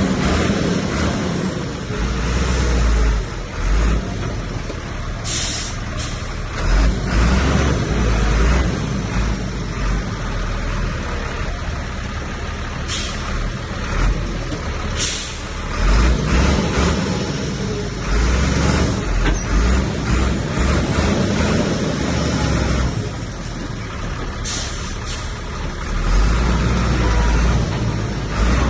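Heavy diesel earthmoving machinery running and working under load, its engine rumble rising and easing. Short hissing bursts cut in four times.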